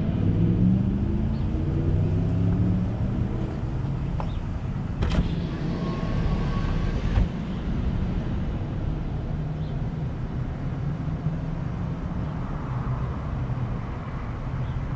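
Car engine slowing as the car rolls to a stop, its pitch falling over the first few seconds, then idling steadily. About five seconds in there is a click and a whir lasting about two seconds that cuts off suddenly.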